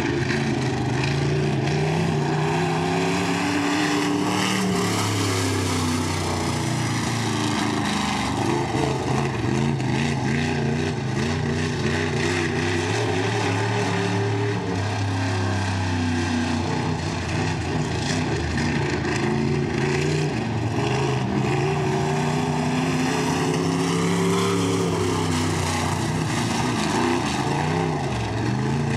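B-Mod dirt-track race car engine running hard on the oval, its pitch rising and falling in slow repeated swells, about three times, as it accelerates down the straights and backs off into the turns.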